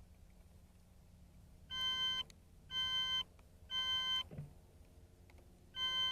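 Electronic beeps, four of about half a second each: three a second apart, then one more after a pause. They signal electrical continuity through the rocket motor's igniter circuit before launch.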